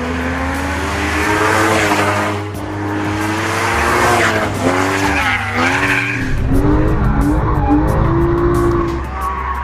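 Porsche Cayman GTS's 3.4-litre flat-six engine accelerating hard, its pitch climbing and dropping back several times as it shifts gears.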